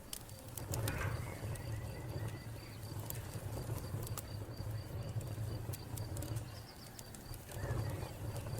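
Wood fire crackling, with scattered sharp pops over a low steady rumble. A cricket chirps in an even repeating rhythm alongside.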